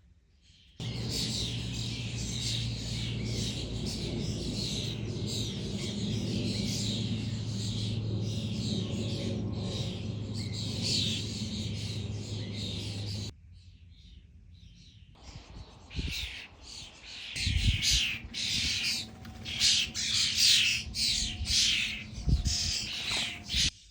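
A flock of common starlings chattering and squawking, a dense scratchy babble, under a steady low hum. It cuts off abruptly and resumes after a short gap, with a few low thumps among the chatter.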